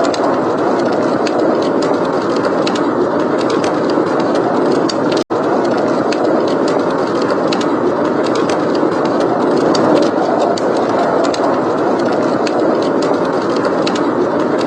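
Steady blizzard wind rushing, with a wood fire crackling in a fireplace as scattered sharp pops throughout. The sound cuts out for a split second about five seconds in.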